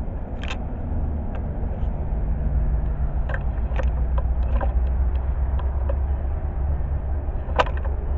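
Train rumbling past on the rails, with a steady low rumble and a scattering of sharp clicks, the loudest about a second in and near the end.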